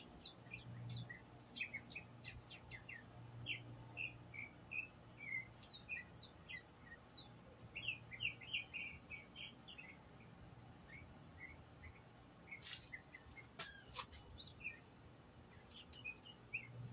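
A songbird singing faintly, a quick run of short chirps and twitters repeated throughout. A few sharp clicks come about three-quarters of the way through, over a faint steady low hum.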